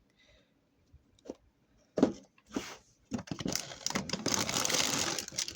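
A few light clicks and a sharp knock, then about two and a half seconds of continuous tearing and rustling as a LEGO set's cardboard box and packaging are torn open.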